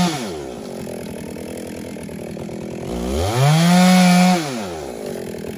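Two-stroke chainsaw engine coming down off the throttle to idle, then revved up again for about a second and a half before dropping back to idle.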